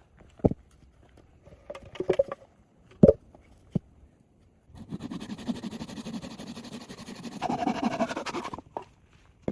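A few sharp knocks, then a rasping, buzzing work noise of about four seconds that grows brighter near the end and cuts off suddenly.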